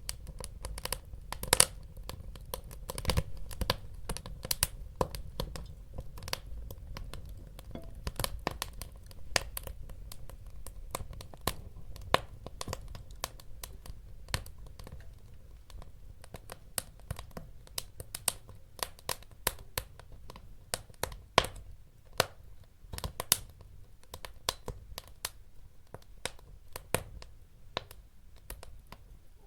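Wood fire burning in a fireplace, crackling with many irregular sharp pops over a low, steady rumble of the flames.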